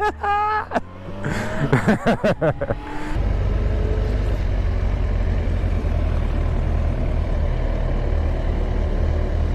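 Motorcycle accelerating, its engine pitch rising over the first few seconds. From about three seconds in it gives way to a steady loud low rush of wind and engine at speed.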